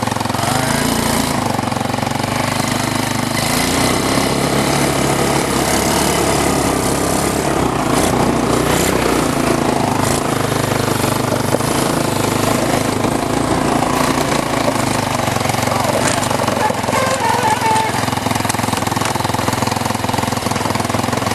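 A 150cc GY6 single-cylinder four-stroke engine running steadily, driving a mini monster truck over a dirt trail, with a few short knocks about eight seconds in.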